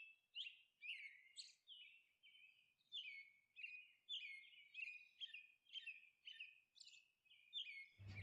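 Faint bird chirping: a run of short, high, falling chirps, roughly two a second.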